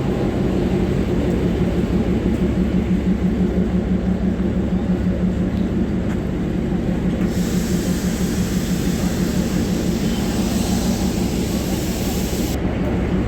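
Darjeeling Himalayan Railway narrow-gauge toy train running, heard from inside a carriage: a steady low rumble. A hiss joins in about seven seconds in and stops suddenly some five seconds later.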